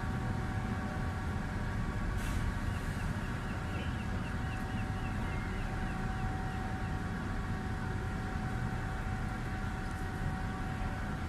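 Steady low rumble and hum of a large car ferry's engines and machinery, with several constant tones running over it. About two seconds in there is a short hiss, followed by a faint run of quick chirps repeating about two to three times a second for several seconds.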